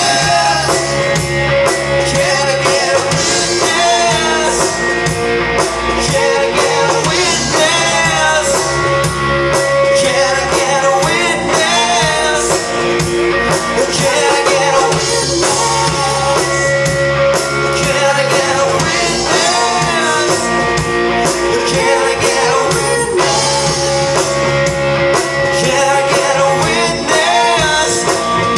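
Rock and roll music played by a band, with singing over guitar accompaniment.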